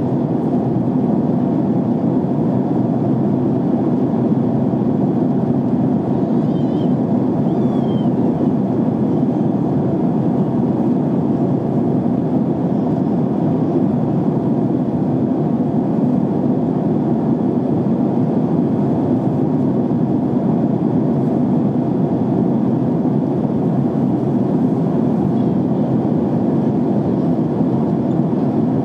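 Airliner cabin noise in cruise flight: a steady, even rush of air and engines heard from inside the cabin, unchanging throughout.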